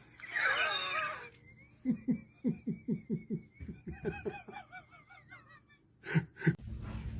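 Laughing in a quick run of short pulses, about six a second, with a high wavering squeal over it; two more short bursts of laughter near the end.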